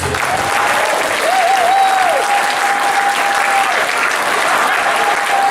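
Audience applauding, with a single held whistle note over the clapping that wavers briefly, holds steady for a couple of seconds, and returns faintly near the end.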